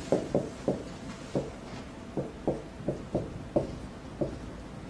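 Writing on a lecture board: a run of short, irregular taps, about three a second, as the lecturer writes between sentences.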